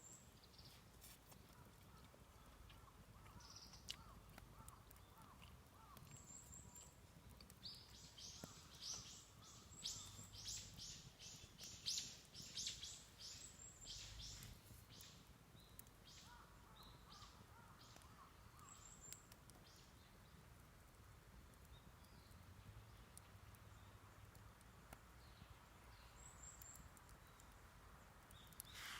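Faint birdsong in woodland: short, very high chirps every several seconds, and a run of quick repeated notes, about two a second, from about a third of the way in to the middle.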